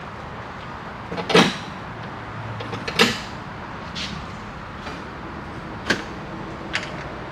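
About five separate sharp clicks and knocks of hardware being handled inside a pickup truck's door, the loudest about a second in and another at three seconds, with fainter ticks later.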